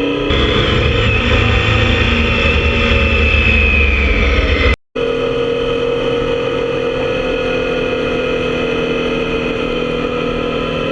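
Motorcycle engine running while riding, getting louder just after the start. A sudden split-second dropout to silence comes about five seconds in; after it the engine runs on steadily with a slowly falling note.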